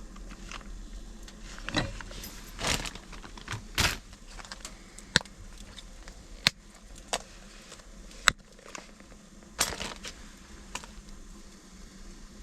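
Irregular sharp clicks and short knocks with some rustling, as of objects being handled, a few louder clicks standing out in the middle.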